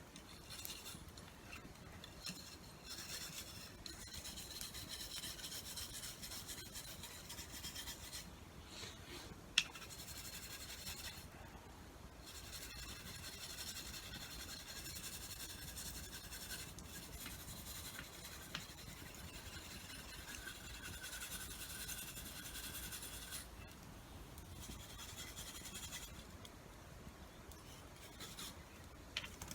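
Hand tool maintenance: long runs of rubbing, rasping strokes with short pauses between them, like a blade being sharpened by hand. One sharp click about ten seconds in.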